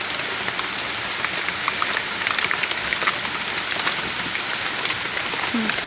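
Steady rain falling, a dense hiss with many separate drops ticking on a surface.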